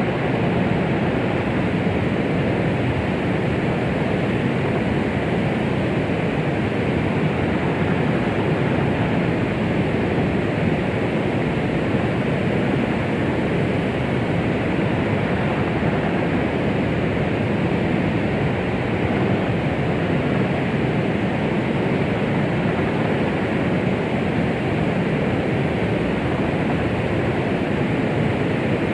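Steady white noise of the 'womb sound' kind for soothing a baby: a constant, even rushing hiss, fuller in the lower and middle range and thin at the top, with no heartbeat or other rhythm.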